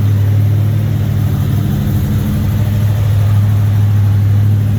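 Oldsmobile 455 Rocket V-8 idling steadily, a constant low hum with no revving.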